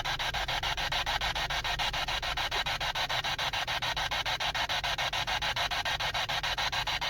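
Electronic static hiss, chopped into rapid, even pulses like a radio sweeping through stations, with no voices in it.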